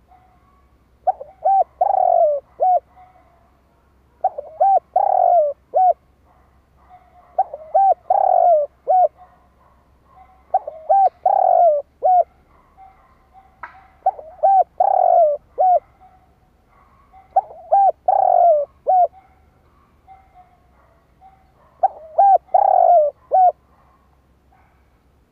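Spotted dove cooing, a decoy bird's call used to stir and lure wild doves. It gives seven phrases of quick repeated coos, roughly one every three to four seconds.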